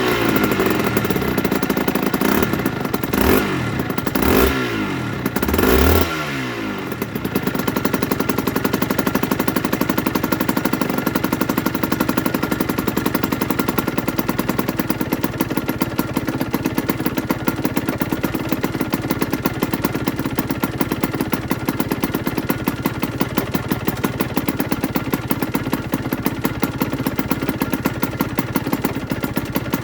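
Aprilia RS125's single-cylinder two-stroke engine blipped up and down a few times in quick succession, then settling into a steady, evenly pulsing idle about seven seconds in.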